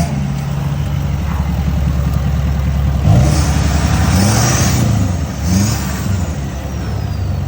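Diesel truck engine running steadily. About three seconds in it is revved several times, its pitch climbing and dropping with each rev, with a high whistle rising and falling above it.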